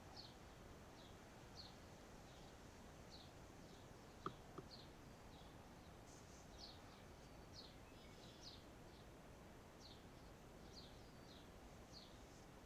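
Faint, short, high chirps from a bird, repeated steadily about once or twice a second over a soft outdoor hiss. Two sharp clicks come close together a little over four seconds in.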